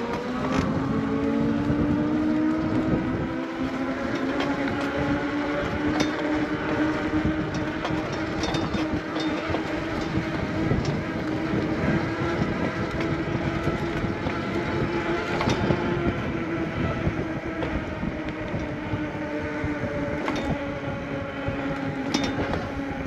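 Lectric e-bike's hub motor whining while riding, its pitch climbing over the first few seconds as the bike speeds up and then holding steady, over wind and tyre noise with scattered small knocks.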